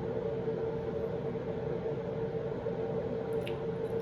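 Steady background hum: one constant tone over a noise bed, with a faint click about three and a half seconds in.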